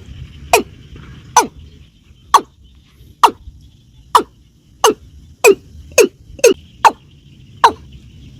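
Watercock calling: a series of about eleven loud, short notes, each sliding quickly down in pitch, coming closer together around the middle.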